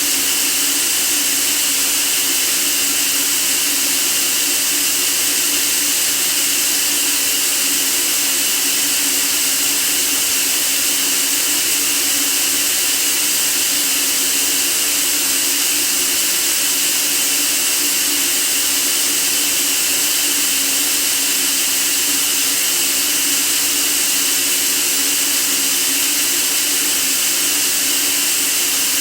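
Steady white noise: an even, unbroken hiss with no change in level, brightest in the high treble.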